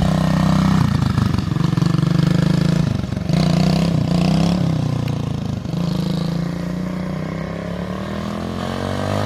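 Chinese 125 cc pit bike's single-cylinder four-stroke engine running under a rider, the revs dipping and picking up again about three times as the throttle is eased and reopened, then climbing near the end.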